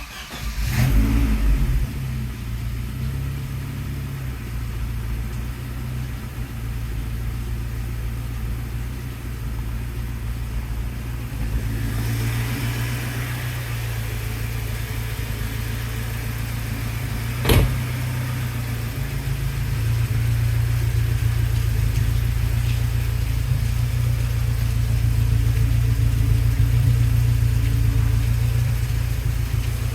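1988 Saab 900 SPG's turbocharged 2.0-litre four-cylinder starting from cold after sitting for a couple of days. It catches at once, flares briefly, then settles into a steady cold idle. A single sharp knock sounds a little past halfway.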